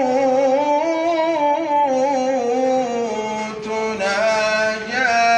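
A solo voice singing an Islamic ibtihal in long, ornamented melismatic phrases, drawing out one held line and starting a new phrase, on the word "wal-hūt", about three and a half seconds in.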